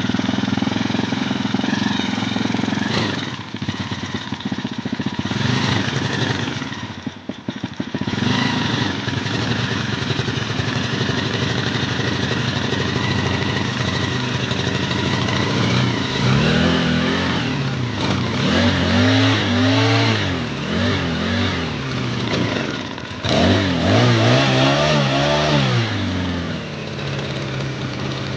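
Small four-stroke water-pump engine fitted with a pitbike centrifugal clutch, running with a couple of brief dips at first, then revved up and down repeatedly from about halfway before dropping back to idle near the end. The revving tests whether the centrifugal clutch engages the sprocket.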